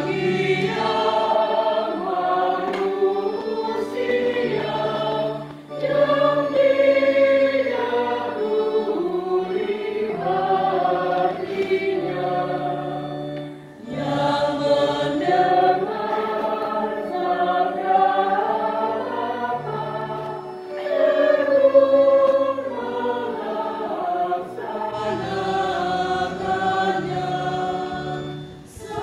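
Choir singing a hymn in long phrases over sustained low accompaniment notes, with a brief breath-pause between phrases about every seven seconds.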